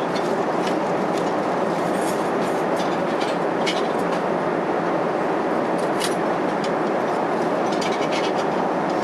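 Boeing 777-300 cabin noise: a steady rush of air and engine noise with scattered light clicks and rattles, strongest about two, four and six seconds in and near the end.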